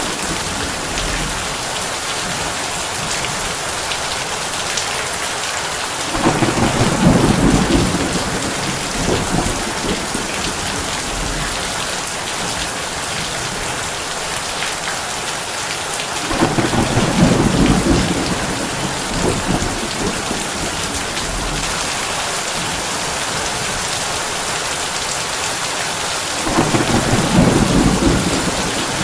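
Heavy rain drumming steadily on a tin roof, with three low rolls of thunder about ten seconds apart, each lasting two to three seconds.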